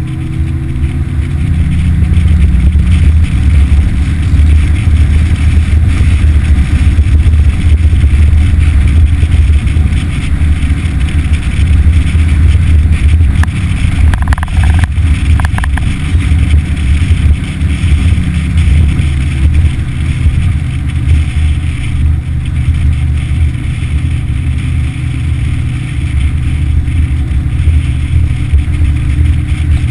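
Yamaha F60 four-stroke outboard motor running under way, a loud steady low drone; its pitch and level rise over the first couple of seconds as the throttle opens, then hold.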